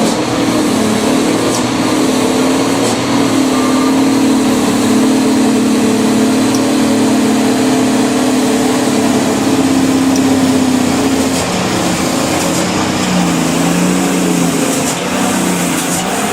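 Truck engine running at steady revs, its hum held for several seconds, then dropping slightly in pitch and wavering about eleven seconds in.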